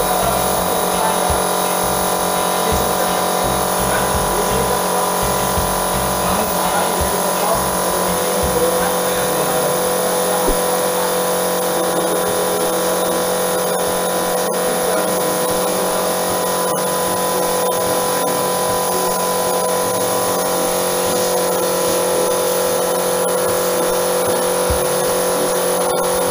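Small air compressor feeding an airbrush, its motor humming steadily and evenly.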